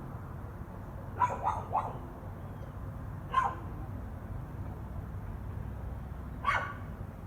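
A dog barking: three quick barks about a second in, another about two seconds later, and a single bark near the end.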